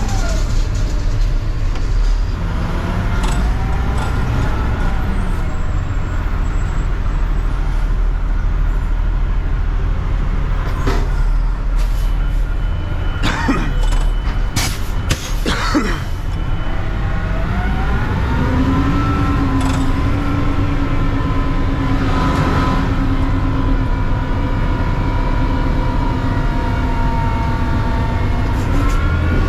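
Mack CNG front-load recycling truck's engine running, its speed dipping and picking up again. A cluster of sharp bangs comes near the middle, then the engine rises to a higher speed and holds there steadily.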